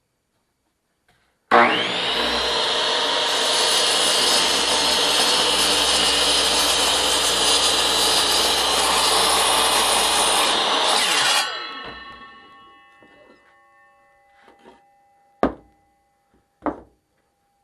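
Bandsaw switching on and running loud and steady for about ten seconds while sawing a wooden 4x4 block, then switched off, its motor and wheels coasting down with a fading ring. Two sharp knocks follow near the end.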